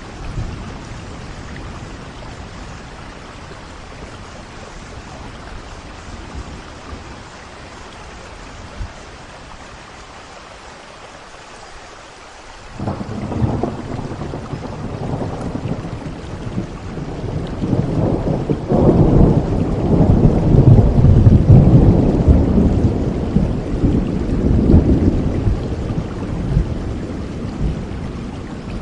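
Steady rain falling. About halfway through, a roll of thunder breaks in suddenly, swells to its loudest a few seconds later, and rumbles on, fading slowly near the end.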